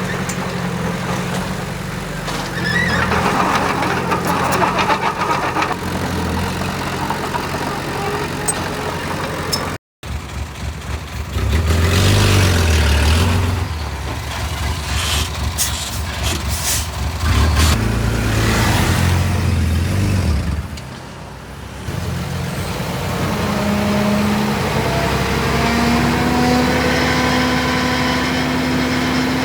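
Heavy construction machinery engines running and revving under work, with the engine note shifting in pitch and level. The sound breaks off abruptly about ten seconds in and picks up again, and near the end an engine note climbs as it speeds up.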